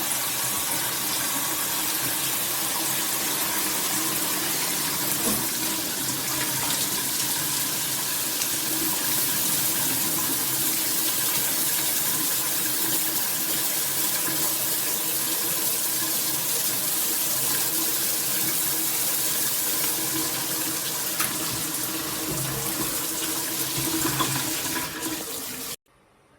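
Shower water spraying steadily from a rain shower head, a loud, even rush, cutting off abruptly near the end.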